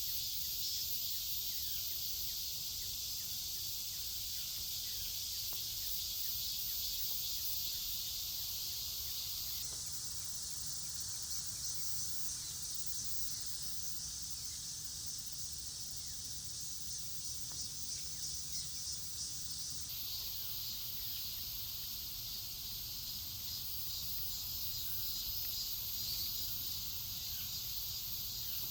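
A steady, high-pitched chorus of insects chirring, with a fine fast pulsing texture; the chorus changes abruptly about ten seconds in and again about twenty seconds in.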